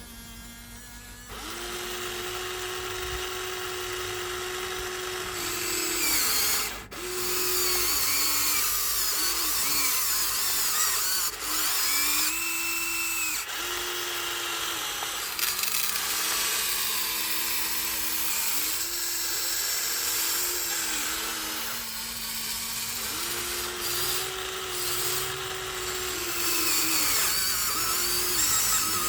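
Huina 1593 RC excavator's small electric motors whining. Two steady pitches cut in and out in short runs of one to a few seconds, with a higher whine over them.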